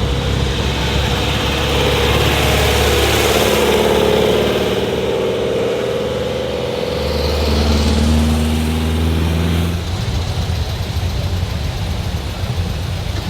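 Old cars' engines running slowly as they drive past, with a hum whose pitch bends over a few seconds. A steady low engine hum follows, easing off about ten seconds in.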